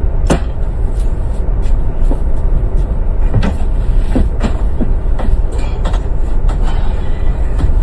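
Loud, steady low rumble of a moving vehicle heard from inside, with scattered sharp clicks and knocks like loose fittings rattling.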